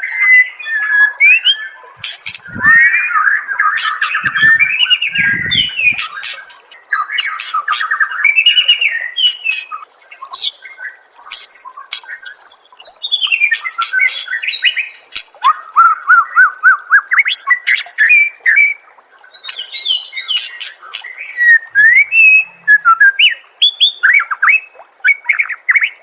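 White-rumped shama (murai batu) singing a long, varied song of sweeping whistles, rapid trills and short harsh notes, with only brief breaks between phrases.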